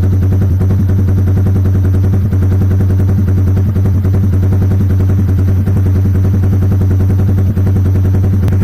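Yamaha Jupiter MX King 150's single-cylinder four-stroke engine idling through an aftermarket Pro Liner exhaust: a loud, steady, rapid popping exhaust note.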